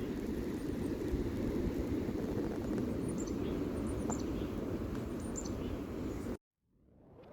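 Steady rushing outdoor noise with faint bird chirps over it, cutting off abruptly near the end.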